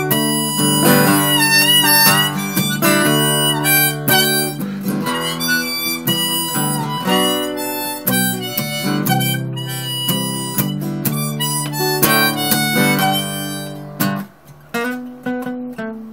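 Harmonica playing an instrumental solo over strummed acoustic guitar, with bent, wavering notes. About 14 seconds in the full sound stops and only a few sparse guitar notes ring out as the song closes.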